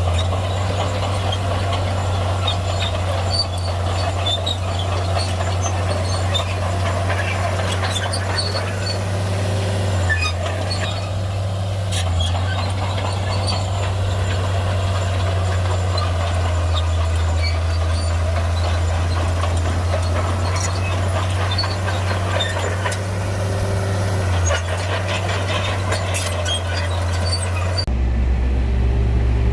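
Heavy bulldozer's diesel engine running steadily under load, with scattered clanks and knocks from the tracks and pushed stone. The engine note changes abruptly near the end.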